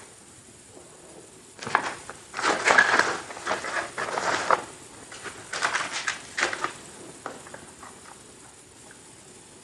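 Close-miked crunching of Oreo cookies being bitten and chewed. Dense crisp crunches come in two spells, the first starting about two seconds in and the second about halfway through, then it goes quiet.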